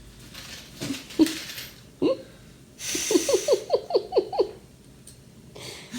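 A person laughing in a quick run of short 'ha' sounds, each falling in pitch, about three seconds in, after a few softer chuckles.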